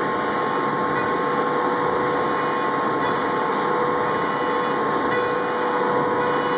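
Double-head CNC wood router running, a steady whine over a constant machining noise.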